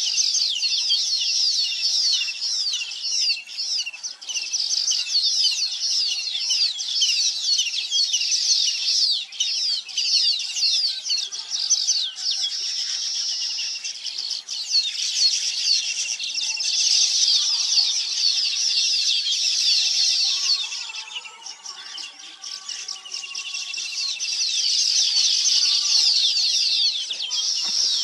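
A flock of small birds chirping and twittering all together in a dense, continuous high chatter. It thins out briefly about three-quarters of the way through, then builds again.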